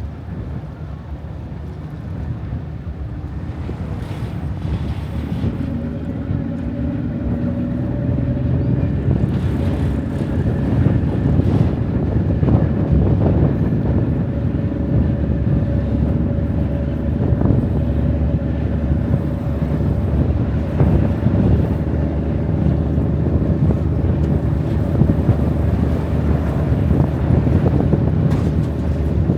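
Engine of a river cruise boat running with a low rumble and a steady droning hum, growing louder over the first ten seconds, with wind buffeting the microphone.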